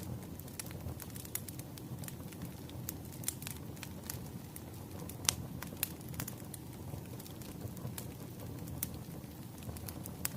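Firewood burning, crackling with scattered sharp pops over a low steady rumble of the flames; one louder pop about five seconds in.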